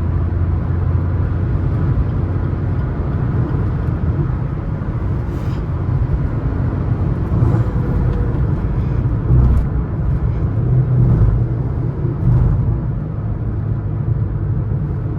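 Suzuki S-Cross 1.3 DDiS diesel engine and road noise at highway speed, heard from inside the cabin: a steady low drone with a few brief swells.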